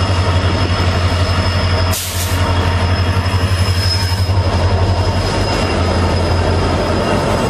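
Passenger train rolling through a station: a steady deep low drone under a thin high wheel squeal, with a brief harsh burst about two seconds in.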